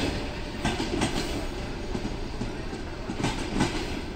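Passenger coaches rolling slowly out of a station, their wheels clattering with irregular knocks over rail joints and points, over a steady rumble.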